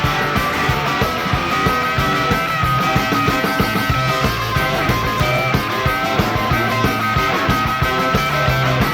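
Live rock-and-roll band playing an instrumental break with no vocals: electric guitars over bass guitar and drums, with a steady beat.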